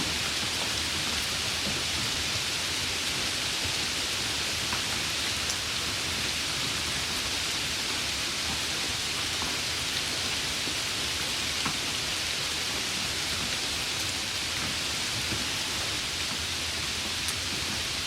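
Steady summer rainfall, an even hiss of rain with a few individual drops ticking out now and then.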